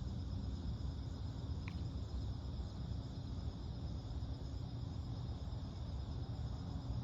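Insects, likely crickets, trilling steadily in a fine, fast pulse over a constant low rumble. A single brief faint chirp about two seconds in.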